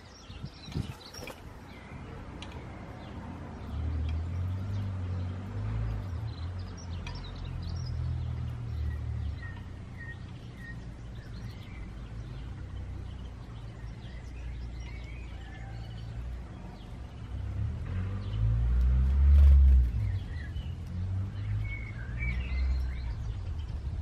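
Garden birds chirping in short scattered calls, over a low rumble that swells briefly about two-thirds of the way through.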